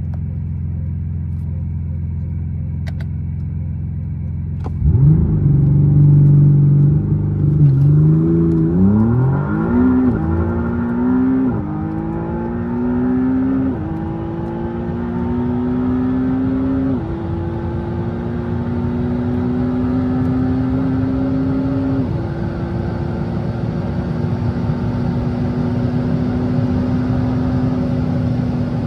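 McLaren Artura's twin-turbo V6 idling, then about five seconds in opening up suddenly and accelerating hard through the gears. The pitch rises and drops back at each upshift, with the shifts coming further and further apart, until the engine settles into a steady higher drone at speed.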